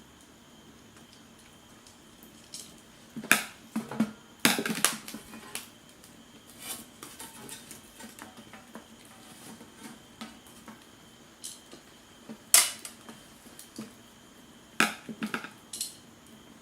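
Sharp clinks and clatters of cookware or tableware being handled, in a few short clusters with quiet between them.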